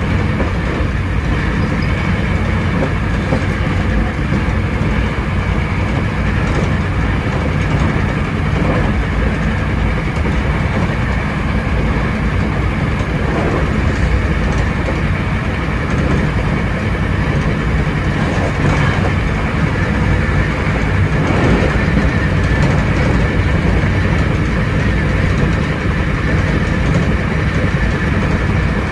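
Hankyu 7300 series electric train running at steady speed: a constant rumble of wheels on rail, with a few faint clicks of rail joints.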